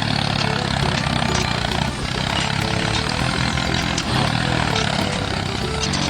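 Small engine running steadily, a low even drone with mechanical noise over it.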